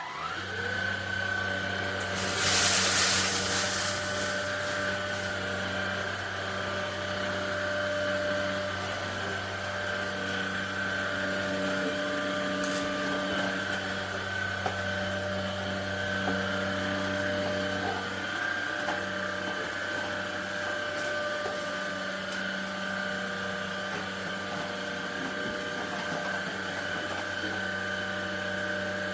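A cordless stick vacuum's motor spins up with a rising whine, then runs steadily with a high whine over a low hum. There is a louder rush of air about two seconds in, and the motor stops near the end.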